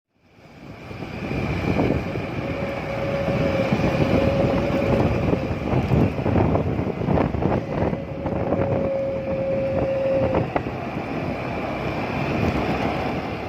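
Wind and road noise on a moving motor scooter, with wind buffeting the microphone. It fades in at the start, and a steady hum sounds twice for a few seconds each time.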